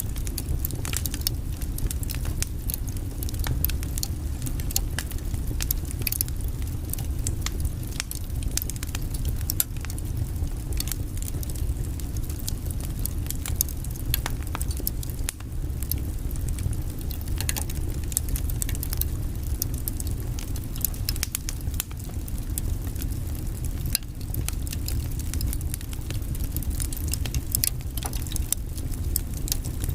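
Wood fire burning in a fireplace: a steady low rumble of the flames with many sharp, irregular crackles and pops from the logs.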